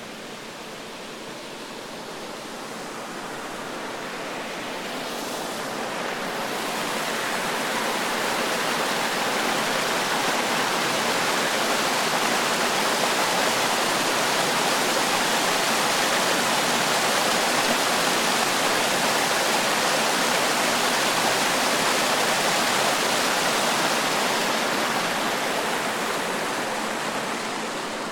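Rushing water, a steady even roar that grows louder over the first several seconds, holds, then fades near the end.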